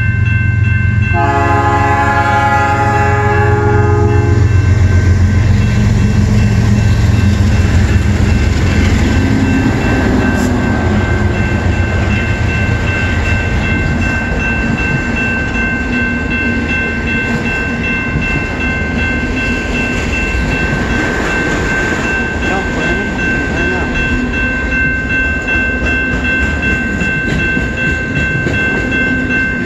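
Eastbound CN freight train passing: the lead diesel locomotive sounds its horn once, a chord lasting about three seconds beginning about a second in, with the locomotives' engine rumble loudest over the first several seconds. Autorack cars then roll by with steady wheel-on-rail noise, while crossing bells ring steadily.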